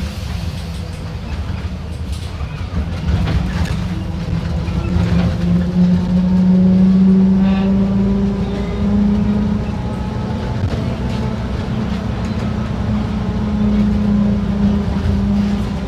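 Mercedes-Benz OF-1721 BlueTec 5 bus diesel engine running under way. Its hum rises in pitch and grows louder from about four seconds in to about seven seconds as the bus accelerates, then holds steady.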